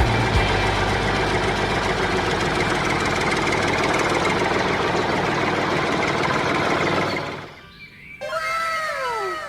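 A small engine or motor running steadily with a rough, rattly sound, fading out about seven seconds in. Near the end, a quick run of short whistles, each falling in pitch.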